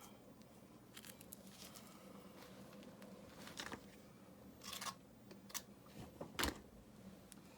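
Faint, scattered scrapes and sharp clicks of river rocks being handled and set in mortar, about six short sounds spread irregularly, the loudest near the end.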